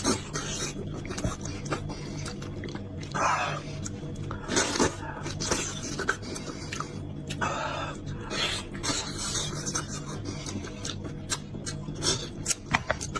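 Close-miked chewing, lip smacking and slurping of soft, gelatinous beef trotter, many short wet bursts one after another.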